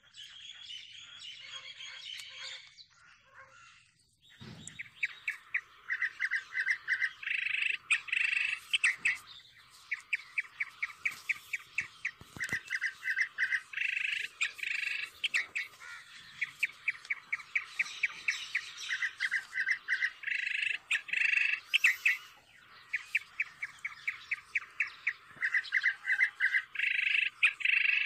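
Birds chirping in quick, repeated trills, starting about four seconds in, after a soft thump.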